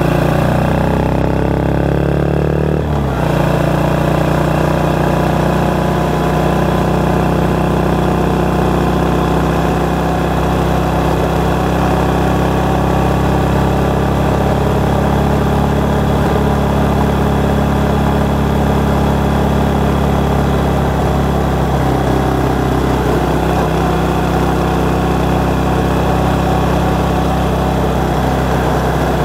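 Motorcycle engine running under way, picked up by a microphone under the seat, so the engine is heard strongly and the wind only a little. The engine note shifts over the first three seconds, then runs steadily.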